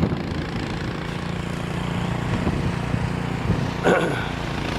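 Snow blower engine running steadily, with a brief higher-pitched sound about four seconds in.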